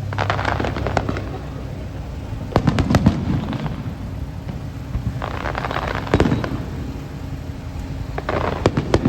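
Aerial fireworks shells bursting in four clusters of sharp bangs with crackling, every two to three seconds.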